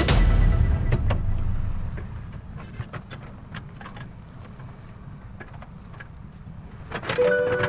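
Diesel engine of a Solar 130W-III wheeled excavator running with a low rumble, loud for the first two seconds and then quieter, with scattered clicks and knocks. Music comes back in near the end.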